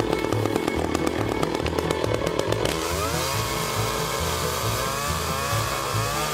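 Small gasoline chainsaw engine running and being revved, its pitch rising and falling. About three seconds in it drops to a lower, wavering tone. Background music with a steady beat runs underneath.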